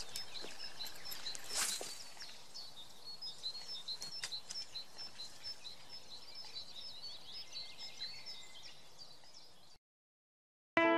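Small birds chirping, short high chirps repeating several times a second, with a brief swish about two seconds in. The sound cuts off to silence near the end.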